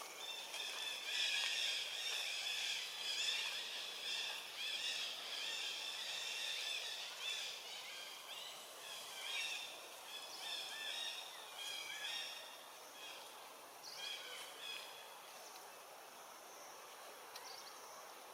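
A chorus of short, high, chirping animal calls, many overlapping and repeating, which thin out and fade after about fifteen seconds.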